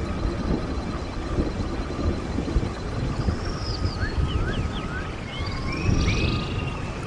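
Running water of a stream, a steady rushing, with birds singing over it: thin whistled notes and quick up-and-down phrases, busiest from about three seconds in.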